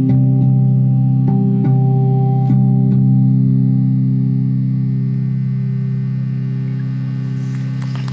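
Closing bars of live ethnic percussion music: a steady low drone with a few last struck notes in the first three seconds, then the drone rings on and slowly fades out, stopping right at the end.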